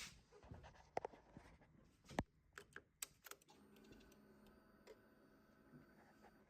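Faint clicks, then from about halfway a faint steady electrical whine: a Kawasaki GTR1400 sports tourer with its ignition switched on just before starting, its electrics and fuel pump powering up.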